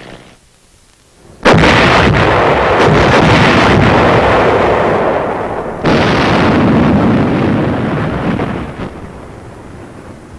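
Two artillery blasts about four and a half seconds apart, each coming in suddenly after a moment of quiet and dying away in a long rumble.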